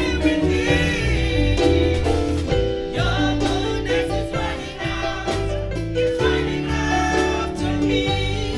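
Gospel music: singing over instrumental accompaniment with a steady bass line.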